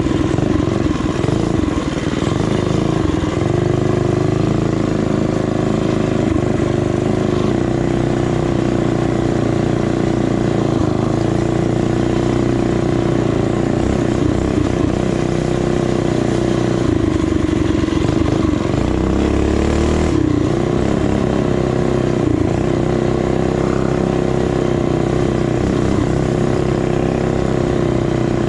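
Small single-cylinder four-stroke trail bike engine running under way at a steady cruising speed, its pitch wavering slightly with the throttle and dipping briefly about twenty seconds in before picking back up.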